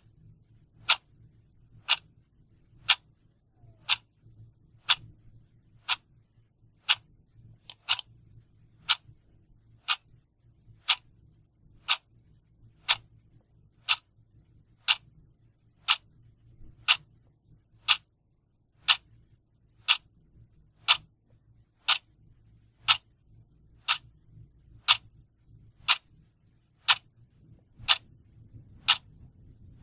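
A mechanical clock ticking steadily, one sharp tick about every second.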